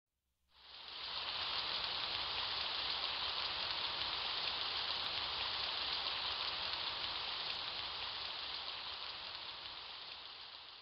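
Steady rain, a continuous even hiss that fades in about a second in and slowly fades away towards the end.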